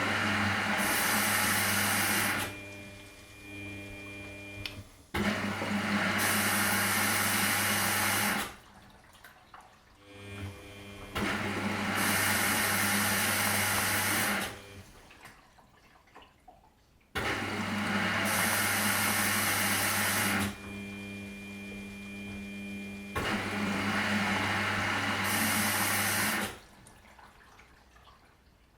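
Washing machine running through a cycle: spells of loud rushing water, about three seconds each over a steady hum, alternate with quieter gaps of a few seconds, about five times in a regular pattern.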